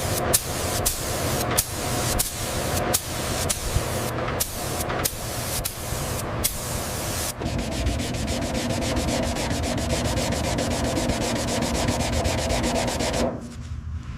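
Sanding: rough rubbing broken by frequent sharp ticks, which about halfway in turns into a steadier, fast, even rasp and eases off just before the end.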